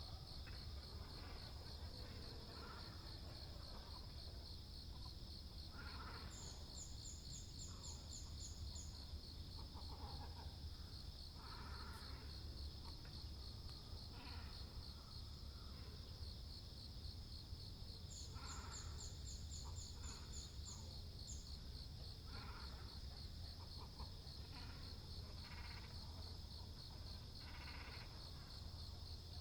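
Early-morning calls of waterbirds, great cormorants and herons, at a pond: short, scattered calls over a steady, pulsing high insect trill. Twice, a rapid run of high notes.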